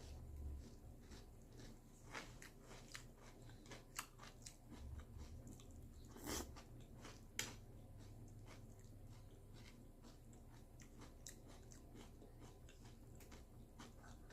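A person eating crunchy cereal close to the microphone: a run of small crisp crunches and chewing, with a few louder crunches in the first half.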